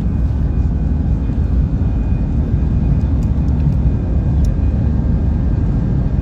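Steady low rumble of an airliner cabin: engine and airflow noise, loud and unchanging.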